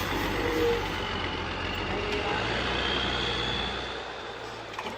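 Heavy machine's engine running steadily, with a faint high whine over it; the level eases down about four seconds in.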